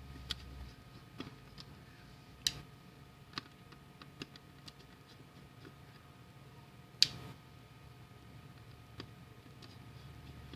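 Irregular small clicks and taps of handling small parts, two of them louder, about two and a half and seven seconds in, over a faint steady electrical hum.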